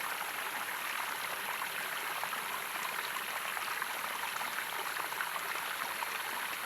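Running water at a waterfall: a steady, even rush with fine splashing.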